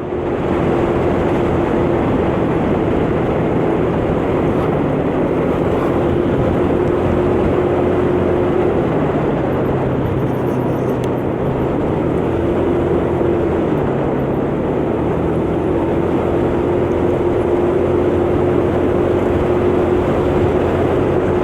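A 125cc motor scooter engine running steadily under way, with a steady rush of wind and road noise. The engine note dips a little around the middle and then climbs back.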